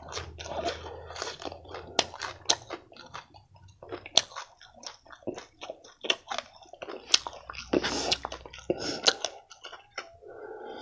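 Close-miked chewing and biting of food, with many sharp, irregular crunches throughout.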